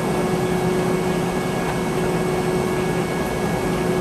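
Steady cabin noise inside a Boeing 717-200 airliner: an even hum and hiss with a constant droning tone.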